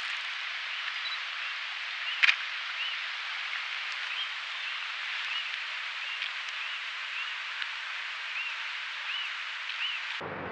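A bird repeating a short chirping note about once every two-thirds of a second over a steady outdoor hiss, with one sharp click about two seconds in. Just before the end the hiss gives way abruptly to a lower rumbling noise.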